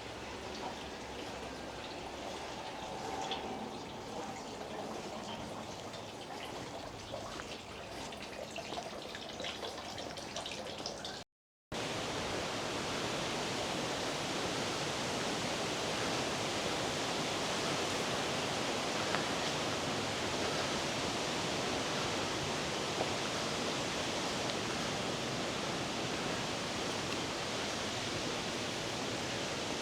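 Steady rushing of running water, like a stream or small waterfall, with a few faint ticks in the first part. About 11 seconds in the sound cuts out for a moment, then comes back as a denser, slightly louder rush.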